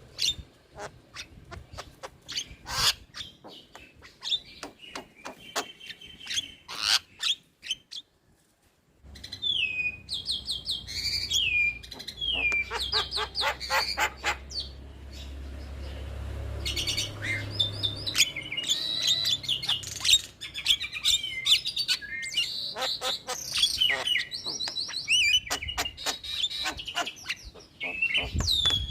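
Javan myna (jalak kebo) chattering song: fast clicks and rattles mixed with whistled notes that slide up and down. It breaks off for about a second some eight seconds in, then resumes.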